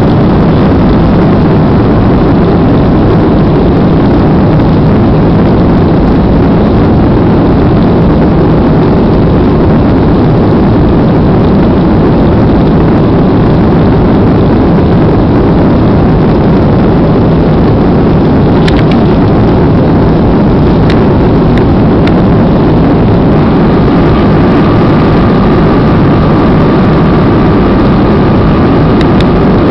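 Steady roar of aircraft engines and rushing air inside an airliner's passenger cabin in flight. A few light clicks come about two-thirds of the way through, and a thin steady high tone joins shortly after.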